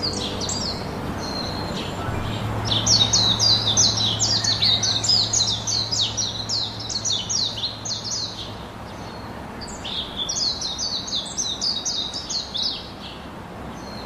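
Bird chirping: two runs of quick, high chirps, each a short downward sweep, several a second, with a pause of about a second between the runs. A steady low hum lies under the first run.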